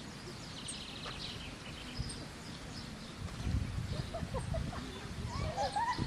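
Birds singing: scattered high chirps, a rapid trill about a second in, and short rising calls near the end, over a low rumbling outdoor noise that grows louder from about halfway.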